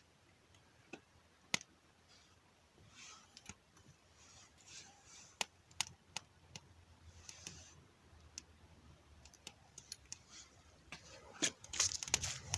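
Scattered sharp clicks and taps with short bursts of rustling, the sound of small objects being handled; the rustling grows louder near the end.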